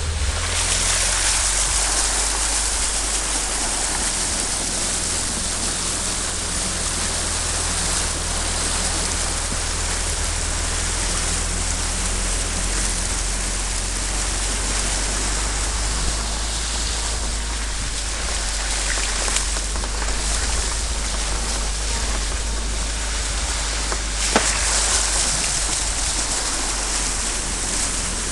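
Steady rushing noise over a constant low rumble, as heard in a moving vehicle: road and wind noise.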